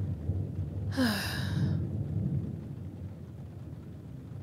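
A woman's short breathy sigh, falling in pitch, about a second in, over the low rumble of thunder and rain; the rumble dies down over the next couple of seconds.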